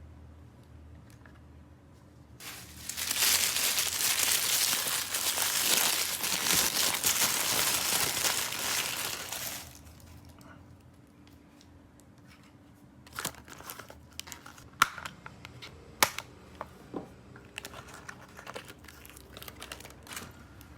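Plastic packaging crinkling and tearing for about seven seconds as a toy is unwrapped, followed by a scattering of sharp clicks and taps from plastic toy pieces being handled.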